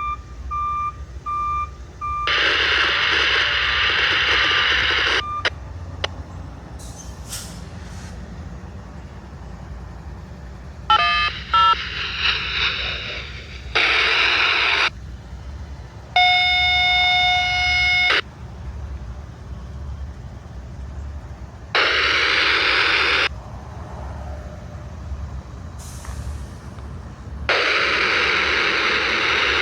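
A road-rail truck idling with a steady low rumble while it sets onto the track: reversing beeps at the start, then several loud bursts of hissing lasting a second or more each. A horn sounds once for about two seconds midway.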